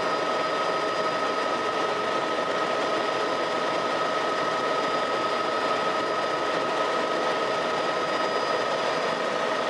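Helicopter engine and rotor noise heard inside the cabin in steady flight: an even drone with a constant whine.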